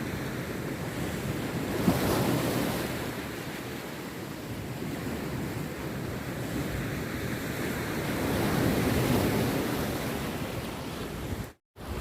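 Rough sea waves breaking and washing up on a beach, a steady rush that swells as breakers crash about 2 seconds in and again around 9 seconds. The sound cuts out for a moment near the end.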